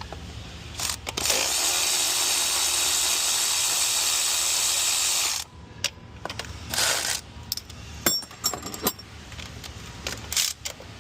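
A power tool runs in one steady burst of about four seconds, starting a little over a second in and cutting off suddenly, followed by scattered metallic clicks and clinks of tools and parts.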